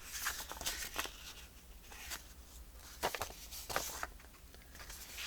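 Paper being handled and turned over on a work surface: scattered light rustles and soft taps.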